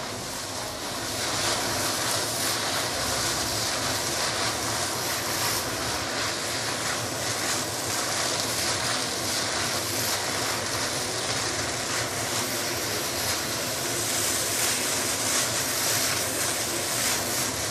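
Stir-fried rice vermicelli sizzling steadily in a frying pan as it is tossed with chopsticks, the broth cooking down into the noodles near the end of frying.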